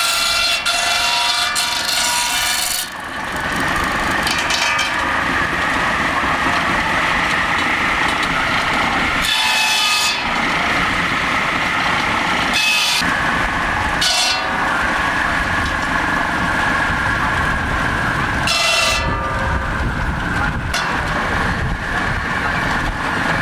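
Belt-driven circular saw bench cutting firewood logs: the blade whines steadily, with several short, harsher passages as it bites through the wood.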